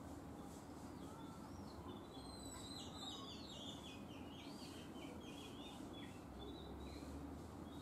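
Small birds chirping faintly, with a quick run of twittering notes in the middle, over a steady low hum.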